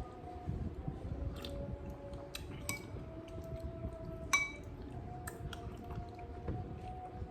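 Cutlery clinking against a plate while eating: scattered light clicks, with one sharp ringing clink about four seconds in.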